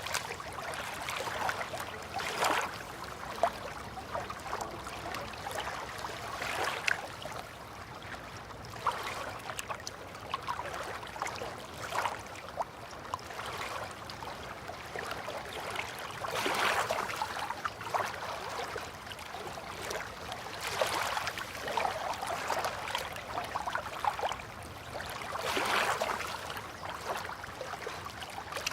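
River water lapping at the bank in irregular swells every few seconds, with small splashes and drips.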